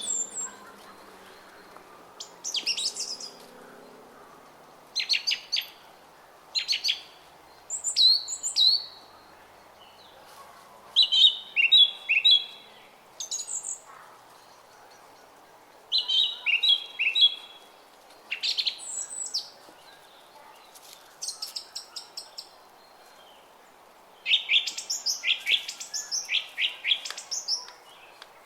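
Songbirds singing in short, repeated chirping phrases every second or two, over the faint steady murmur of a brook.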